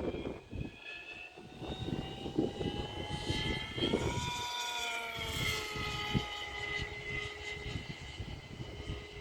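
T-750 RC model airplane in flight, its motor whine rising in pitch midway and then falling away as it passes, with wind buffeting the microphone.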